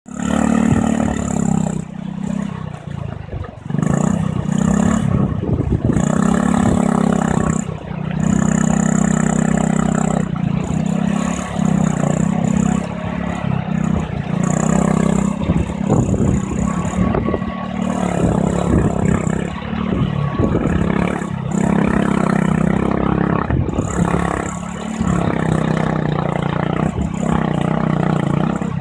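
Motorcycle engine running while riding, its note rising and falling with the throttle, with clattering throughout.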